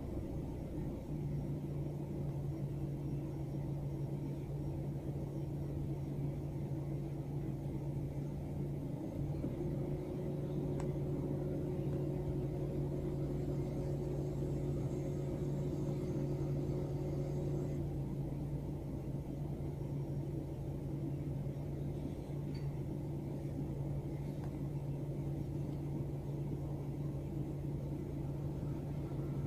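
Steady low hum of a car idling, heard from inside its cabin. A second, higher tone joins for several seconds around the middle.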